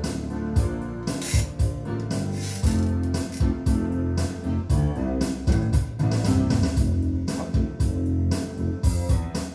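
Band music without vocals: guitar over a steady drum beat, with a keyboard under it.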